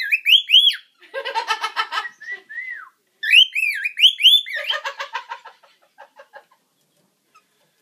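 Pet cockatiel and budgie calling in their cage: runs of swooping whistled notes that rise and fall, twice, between spells of buzzy chattering. The calls stop about six and a half seconds in.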